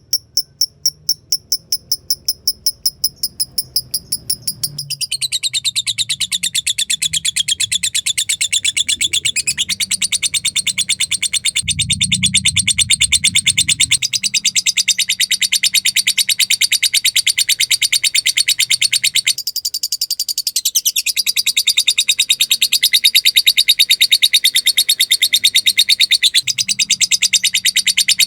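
Lovebird calling: rapid, evenly spaced high ticks ("ngetik") for the first few seconds, then a long unbroken high-pitched chattering trill ("ngekek panjang") that runs on through the rest, the calling used as lure audio to set off a fighter lovebird.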